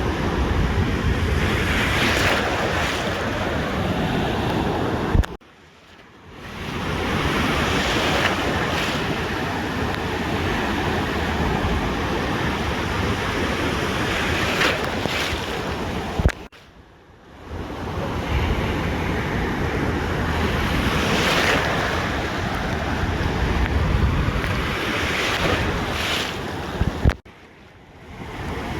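Ocean surf washing onto a beach, rising and falling in surges every few seconds, with wind on the microphone. The sound cuts out abruptly for about a second three times: about five seconds in, about sixteen seconds in and near the end.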